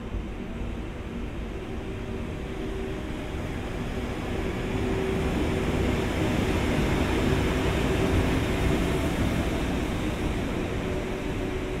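Train running past, a steady rumble with low humming tones that grows louder through the middle and eases slightly near the end.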